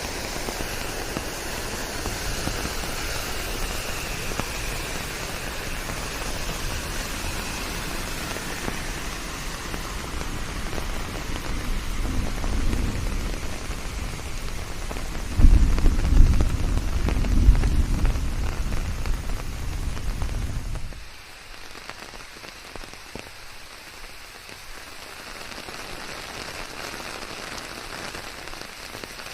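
Steady rain falling and pattering on surfaces. Past the middle, a low rumble swells for several seconds. It then cuts off suddenly, leaving quieter, lighter rain.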